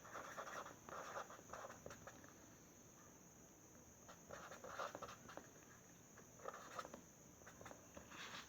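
Faint scratching of handwriting, a few clusters of short pen strokes with pauses between, as a calculation is written out.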